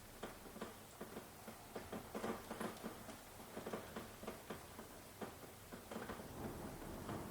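Rain falling, with heavy drops tapping irregularly, several a second. Near the end a low rumble of thunder begins to build.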